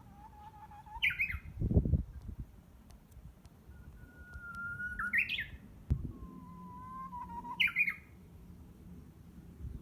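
Japanese bush warbler (uguisu) singing its ho-hokekyo song three times: each a held whistle followed by a quick tumbling phrase. The uploader takes it for a bird practising its song. Low thumps come about two seconds in and again near six seconds.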